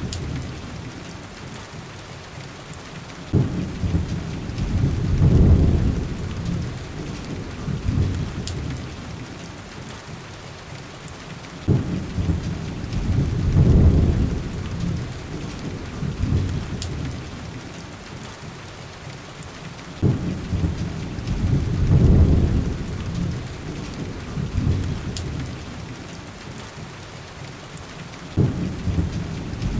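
Heavy rain, steady and hissing, with low rolls of thunder about every eight seconds. Each roll starts suddenly, swells for a couple of seconds, then dies away, at an even, looping spacing.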